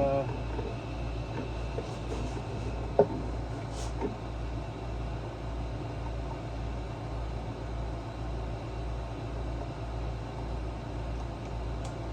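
A steady low machine hum with a slow, even pulse, with a sharp metallic click about three seconds in and a softer one about a second later, as hand tools are used on the generator.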